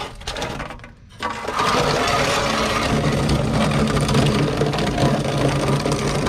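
A motor running steadily, starting about a second in after a brief pause.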